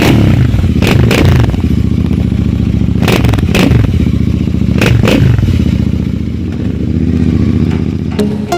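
Royal Enfield Continental GT motorcycle engine running loudly through an AEW TE102 aftermarket megaphone silencer, revved in quick throttle blips, three pairs of them. Music comes in near the end.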